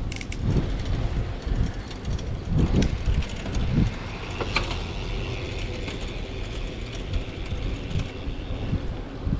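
A bicycle being ridden: a steady low rumble with rattles and a few clicks from the bike as it rolls along.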